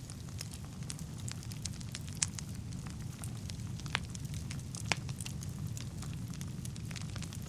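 Wood fire burning in a fireplace: a steady low rumble of the flames with scattered sharp crackles and pops of the burning logs, the clearest about two, four and five seconds in.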